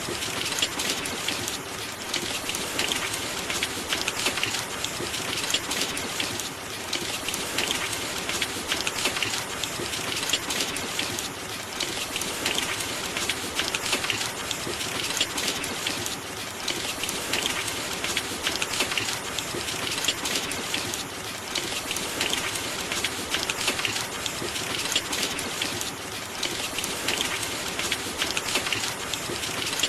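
Steady rain, a dense, even patter of drops with no let-up.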